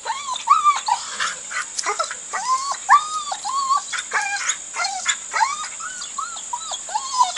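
A dog whining over and over in short, high-pitched rising-and-falling whines, about two a second. The dog is tied on a runner and whining to be let off.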